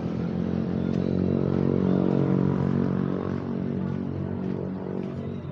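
A motor vehicle engine passing close by on the street, a steady hum that grows loudest about two seconds in and then fades away.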